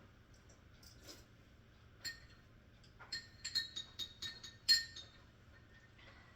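Kitchenware clinking: a single clink, then a quick run of about eight ringing clinks, the loudest near the end.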